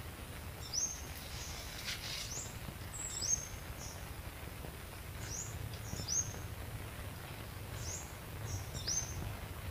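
A bird calling repeatedly: short, high, down-slurred chirps roughly once a second, over a steady low outdoor background.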